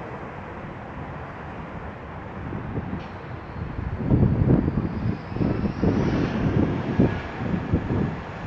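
Jet noise from an Embraer 170 regional jet landing, with a faint high whine that rises gently in pitch around the middle. From about four seconds in, gusty wind rumbles on the microphone.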